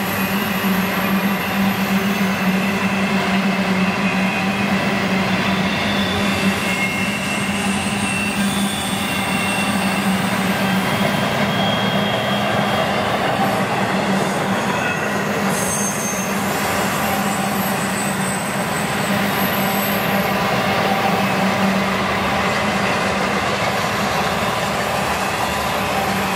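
Double-stack container well cars and trailer-on-flatcar cars of a long freight train rolling past at speed: a steady rumble of steel wheels on rail, with thin high wheel squeals coming and going.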